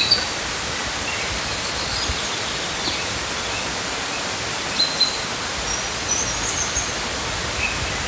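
Small birds giving short chirps here and there over a steady rushing noise.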